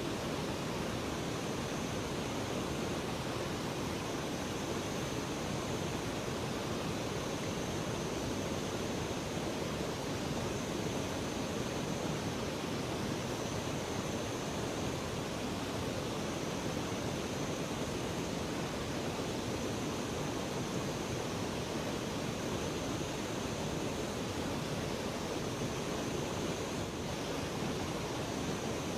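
Steady rushing of river water, an even wash of noise without pauses.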